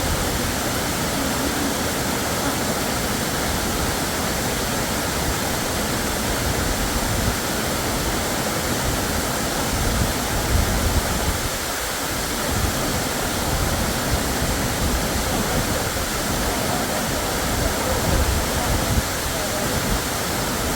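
Waterfall: a steady, loud rush of falling water, with brief low rumbles about halfway through and again near the end.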